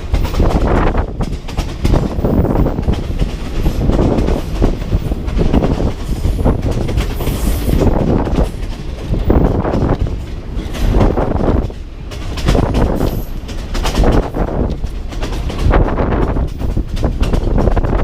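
A moving passenger train heard from aboard a carriage. The wheels rumble and clatter on the rails, and the carriage rattles and shakes, swelling and easing unevenly.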